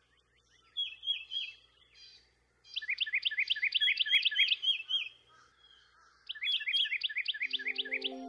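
A songbird singing: a short phrase of a few descending chirps, then two long, fast trills of repeated rising chirps at about eight a second. Soft music comes in near the end.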